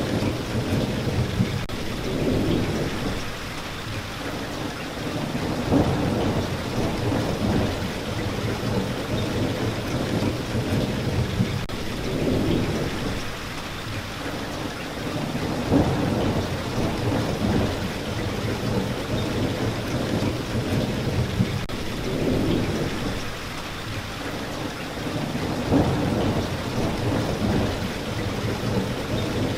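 Steady rain with low rumbles of thunder swelling and fading every few seconds.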